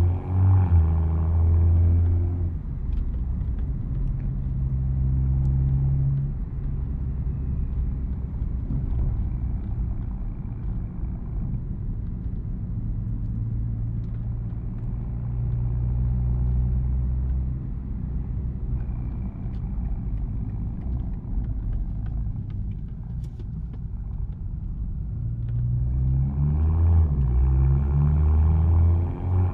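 BMW M240i's B58 turbocharged 3.0-litre inline-six exhaust under load for the first two seconds, then easing off to a steady low drone while cruising. Near the end it pulls hard again, the pitch rising.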